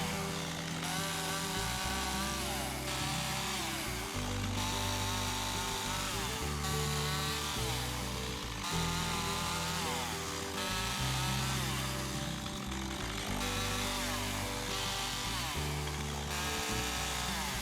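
A chainsaw cutting firewood, its engine revving up and down as it bites into the logs, over background music.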